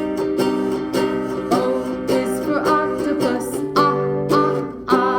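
Instrumental music: an acoustic string instrument strummed in a steady rhythm of chords, with a short melodic line above.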